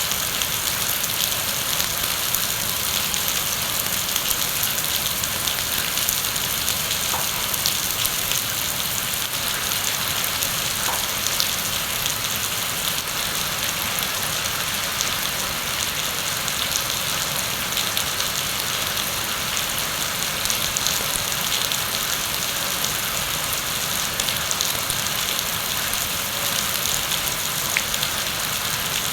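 Heavy rain falling steadily, a dense even hiss with many fine drop ticks and no letup.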